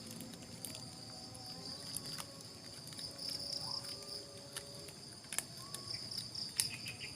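Forest insects, crickets among them, chirring steadily in a high-pitched pulsing chorus, with a few sharp clicks, the loudest about five and a half and six and a half seconds in.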